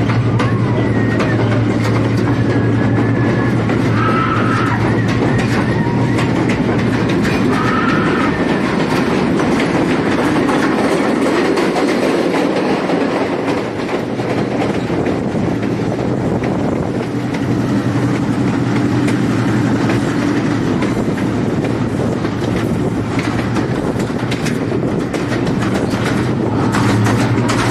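Diesel-hauled passenger train running steadily, with a continuous rumble and the clickety-clack of the coach wheels on the rails, heard loud from an open carriage window. A couple of brief high squeals come about four and eight seconds in.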